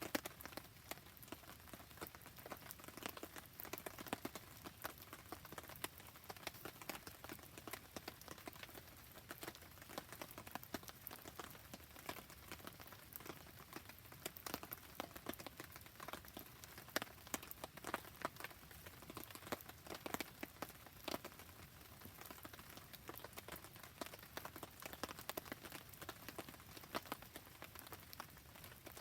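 Rain falling steadily around a crackling wood campfire: an even hiss of rain with many small irregular pops and ticks.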